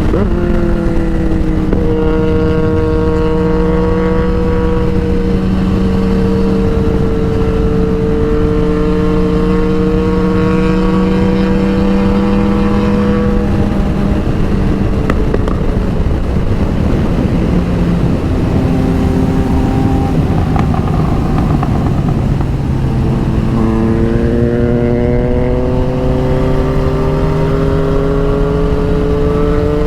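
Motorcycle engine running at road speed over steady wind and road noise. Its note holds fairly level, fades through the middle, then climbs steadily over the last few seconds as the bike accelerates.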